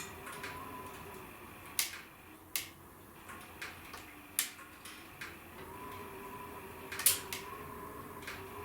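Wood fire in a fireplace crackling, with irregular sharp pops, the loudest a little past the middle, over a faint steady tone.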